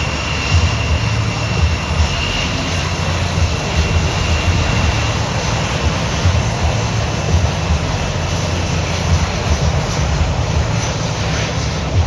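Jet aircraft engine noise, loud and steady, with a heavy rumbling low end.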